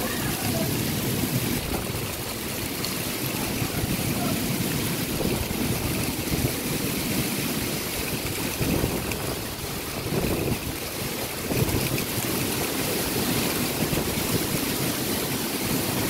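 Heavy rain pouring down in a windy storm: a steady hiss of rain, with wind gusting through the trees and buffeting the microphone in an uneven low rumble.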